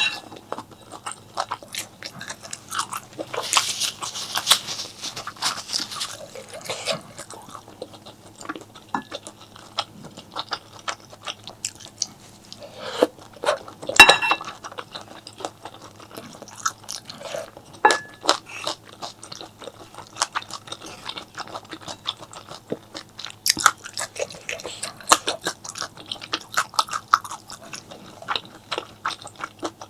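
Close-miked eating sounds: chewing and crunching bites, with many small wet clicks of the mouth. The sharpest, loudest bite comes about 14 seconds in.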